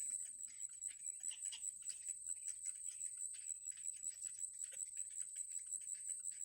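A steady, high-pitched insect drone, like cicadas or crickets, with short, sharp chirps or ticks repeating several times a second over it.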